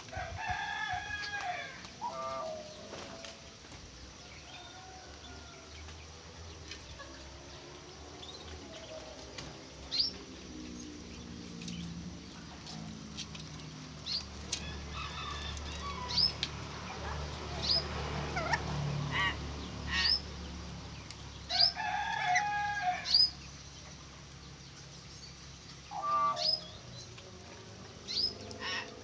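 Birds calling: many short, sharp rising whistles, with a few louder, harsh, drawn-out calls in between.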